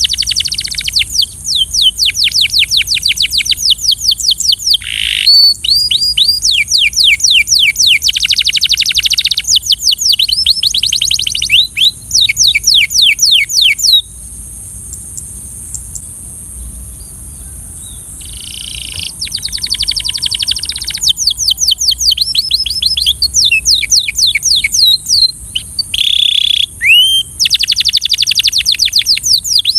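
Belgian canary singing: fast trills of quickly repeated down-sweeping notes in runs of a few seconds, with a pause of about four seconds midway. A steady high hiss runs underneath.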